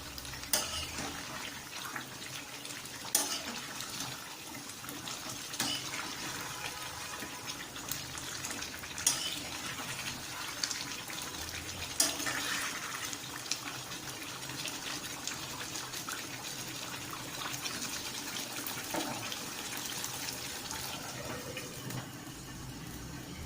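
Chicken in masala cooking in a covered pot on high heat: a steady sizzling hiss, with a sharp click or pop every few seconds.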